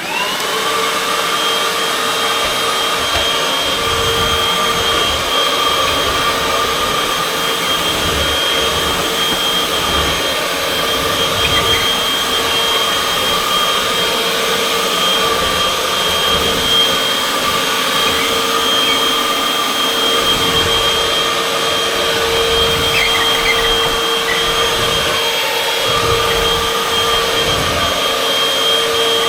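Vacuum cleaner switched on, its motor spinning up within the first second, then running steadily with a high whine over a rush of air. Low bumps and rumbles come and go as it is pushed over the kitchen floor.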